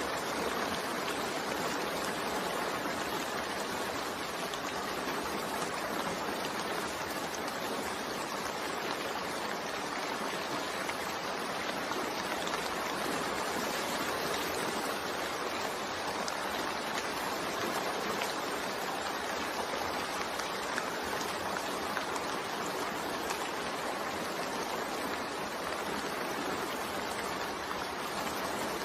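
Steady, continuous rain mixed with white noise, an even hiss without pauses or separate drops standing out.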